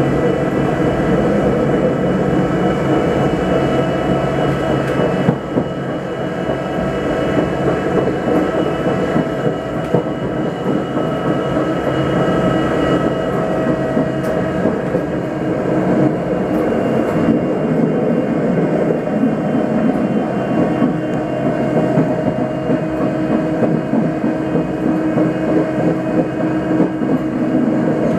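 Electric railcar of the metre-gauge Grütschalp–Mürren line running along the track: a steady rumble of wheels on rails, with a few faint steady whining tones above it.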